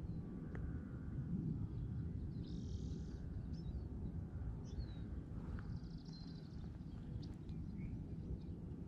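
Scattered short bird chirps and calls, a few seconds apart, over a steady low rumble.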